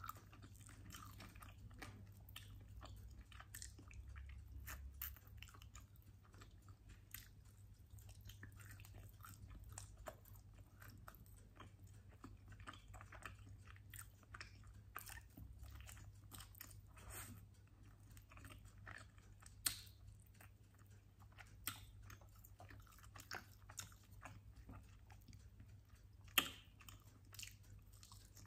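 Quiet, close-up chewing and biting of chicken wings, with wet mouth clicks and small crunches as meat is pulled off the bone. A few louder crunches come in the second half.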